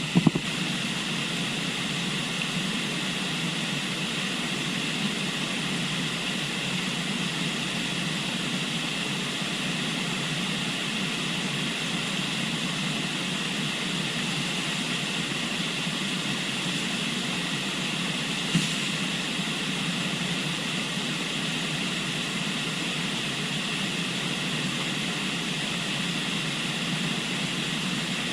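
Steady rushing of a river flowing past, an even hiss with no rise or fall, with one short click about 18 seconds in.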